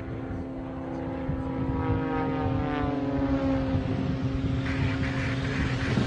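Propeller plane's engine running steadily, its pitch sliding a little lower partway through.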